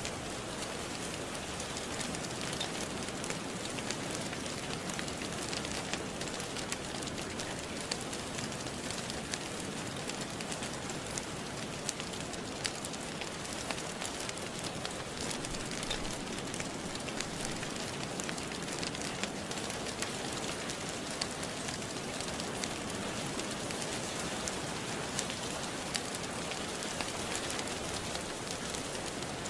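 Steady rain falling, with frequent small crackles and pops from a wood fire in a fireplace.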